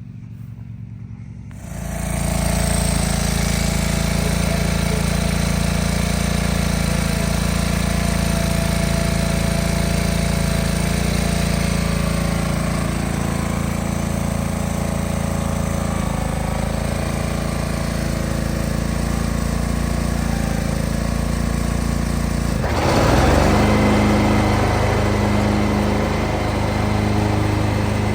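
John Deere 425 garden tractor's liquid-cooled Kawasaki 20 hp V-twin engine running steadily, coming in about two seconds in. About 23 seconds in it gets louder and rougher, and stays so.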